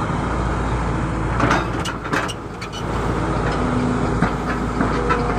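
Excavator's diesel engine running steadily while it works, with a few short knocks and clanks in the middle, the loudest of them about a second and a half in.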